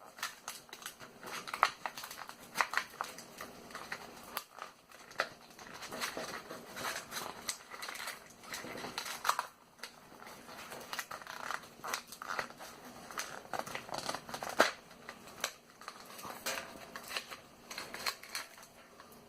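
Small plastic pack of O-rings and washers being handled: irregular crinkling of the packaging with scattered small clicks and taps.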